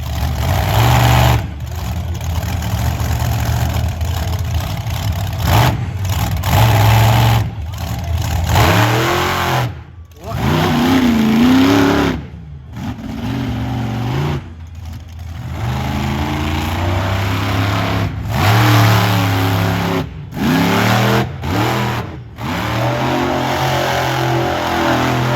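Monster truck engine revving hard over and over, its pitch rising and falling with the throttle, with a few brief breaks in the sound.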